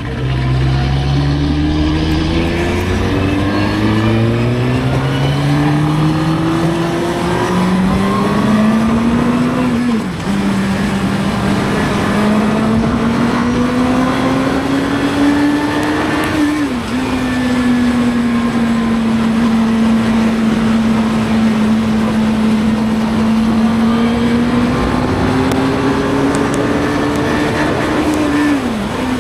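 Suzuki GSX-R750 inline-four engine accelerating as the bike is ridden, its pitch climbing through the gears. Three brief dips in pitch come from upshifts, and after the second one it holds a steady cruise for a while before climbing again. Wind rush runs underneath.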